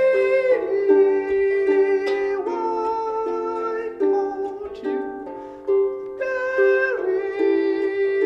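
Plucked string instruments playing a short passage of chords for a sound check, with a new chord struck about once a second and left to ring.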